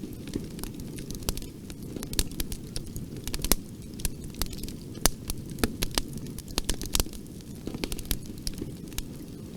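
Bonfire burning: a steady low rumble of flames with frequent sharp, irregular crackles and pops of wood.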